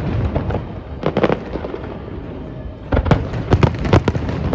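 Fireworks going off: a cluster of sharp bangs and crackles about a second in, and another dense run of bangs from about three seconds in, over a steady low rumble.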